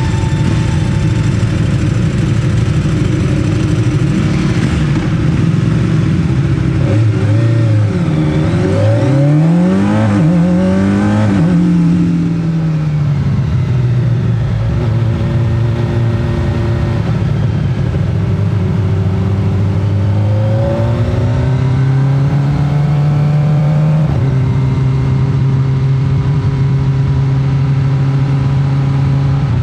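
Kawasaki ZX-25R's 250 cc four-cylinder engine revving up and dropping back several times through the gears, then running at a steady speed with a few small steps in pitch.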